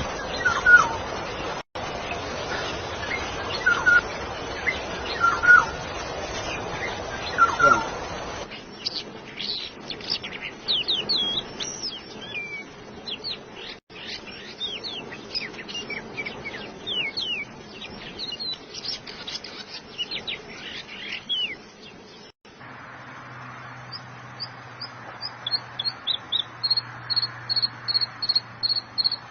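Songs and calls of several different birds in succession. First, short calls spaced about every second and a half over a noisy background; then a long run of rapid, high, sliding chirps; then, over a low steady hum, a fast series of short high notes near the end.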